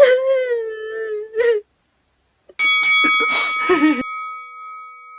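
A drawn-out, howl-like cry that slides down in pitch and stops after about a second and a half. After a short silence comes a brief noisy jumble, and from it a bell-like ringing tone that holds and slowly fades.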